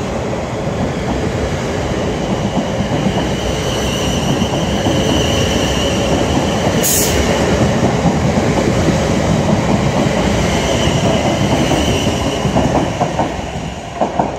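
South Western Railway Class 450 Desiro electric multiple unit running past along the platform: a steady rumble of wheels on rail with a faint high whine. About fourteen seconds in, a few clacks over the rail joints come as the last carriage goes by, and the sound falls away.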